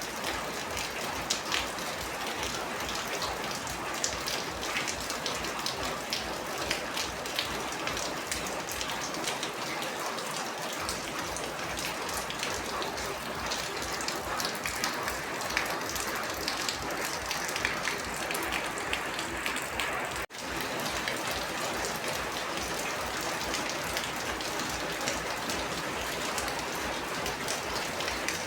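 Steady heavy rain: a dense, continuous patter of drops hitting surfaces. It cuts out for an instant about twenty seconds in, then carries on.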